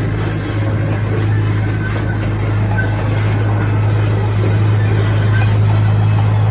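Zoo train running steadily, heard from aboard: a continuous low drone under a broad rumble.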